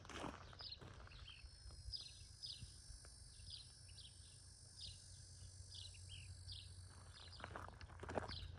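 A bird chirping over and over, short high chirps about twice a second, with faint footsteps at the start and again near the end.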